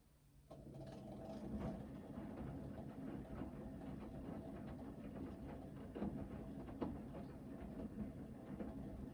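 Hoover VHD 9163 ZI washing machine in its main wash: after a pause, the motor starts with a hum and the drum begins turning about half a second in. Water and laundry churn in the drum with occasional knocks.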